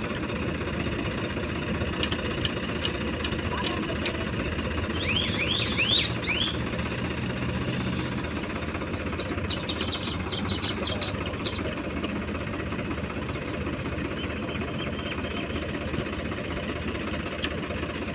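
Diesel tractor engine running steadily with a knocking clatter. About five seconds in, a quick run of high squeaky chirps sounds over it.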